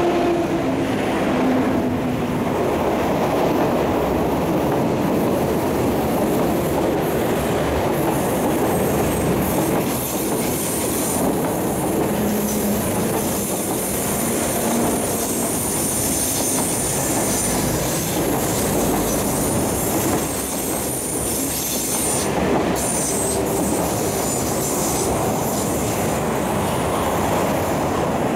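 An East Rail Line MLR (Metro-Cammell) electric multiple unit running on the rails, with a steady rumble of wheels and running gear and a rhythmic rail clatter. A thin, high-pitched wheel squeal comes in about eight seconds in and fades after about twenty seconds.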